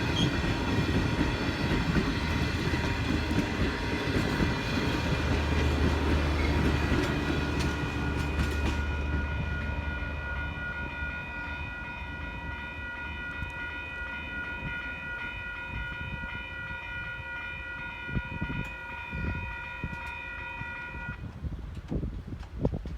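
Great Southern passenger train rolling over the level crossing with wheels clattering and a low engine rumble, which fade out about ten seconds in. The crossing's electronic warning bell rings steadily throughout and stops suddenly about two seconds before the end, as the activation ends.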